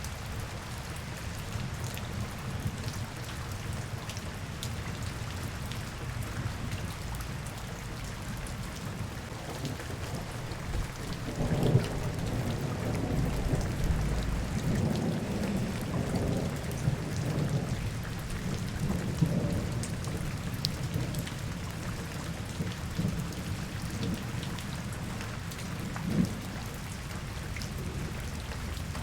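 Steady rain falling, with scattered drops ticking. A low rumble swells about eleven seconds in and dies away by about twenty seconds.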